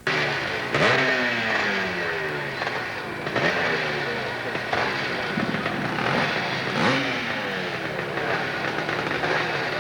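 Hill-climb motorcycle engine revving hard, its pitch jumping up sharply several times and sliding back down in between.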